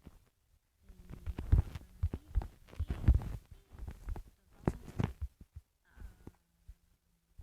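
A run of irregular knocks and dull thumps, over a dozen in a few seconds, with the loudest about one and a half seconds and three seconds in.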